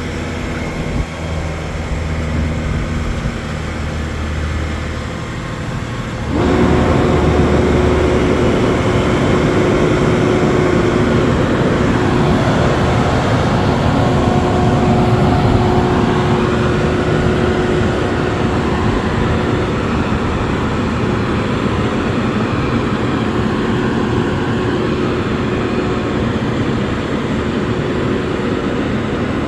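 Crane truck's engine running steadily, then speeding up sharply about six seconds in and holding at the higher speed under load, with a steady whine over the engine noise.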